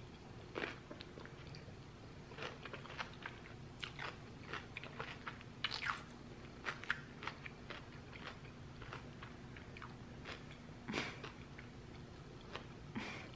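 A person chewing a mouthful of raw vegetables and fruit close to the microphone: irregular soft crunches and mouth clicks, a few louder ones about six seconds in and near the end.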